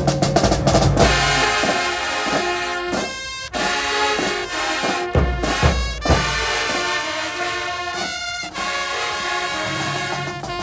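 High school marching band playing: a quick run of drum strokes opens, then the brass section plays sustained chords, breaking off briefly about three seconds in and again about eight seconds in.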